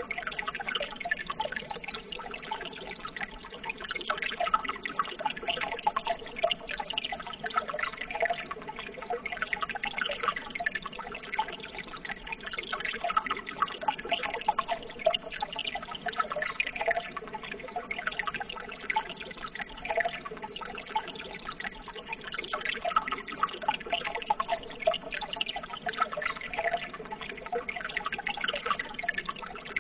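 Running water trickling and bubbling steadily, with a dense, irregular patter of small splashes.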